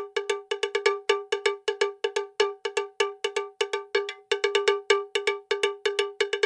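A rapid, slightly uneven run of strikes on a pitched, bell-like metal percussion sound, about five to six hits a second, each decaying quickly.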